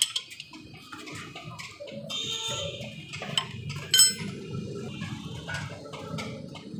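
Metal tools and parts clinking and knocking against each other, with one loud ringing metallic clang about four seconds in.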